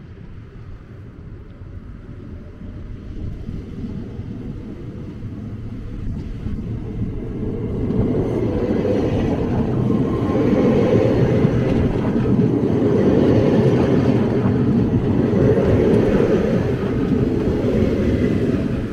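Yellow and blue double-deck electric passenger train rolling past close along the platform: a rumble of wheels on the rails that builds over the first several seconds as it comes near, stays loud while the coaches go by, and eases just at the end.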